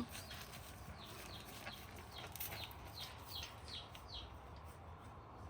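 Chicks peeping faintly: a steady run of short, high, falling peeps, about two or three a second.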